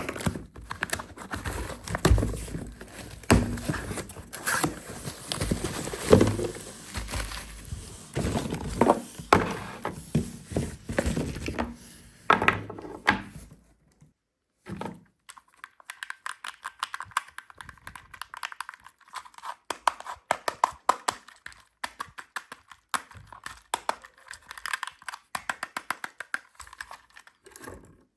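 Packaging being handled and opened: crinkling and tearing with repeated knocks and thunks for about the first half, then after a brief pause a quicker run of light clicks and taps.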